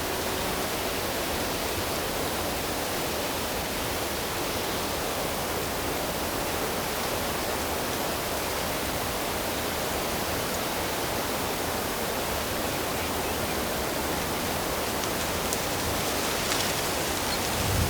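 Steady rush of flowing water, an even unbroken sound.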